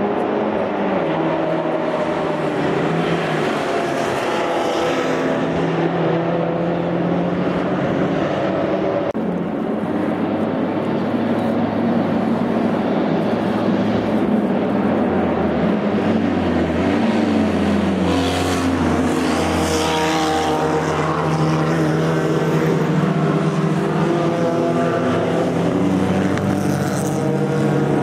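Racing car engines with open exhausts running hard at speed, several engine notes overlapping and their pitch rising and falling as the cars accelerate and shift. The sound changes abruptly about nine seconds in.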